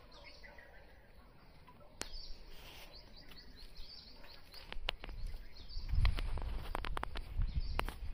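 Small birds chirping in short high calls. From about five seconds in, footsteps and handling knocks close to the microphone come in, with a low rumble under them.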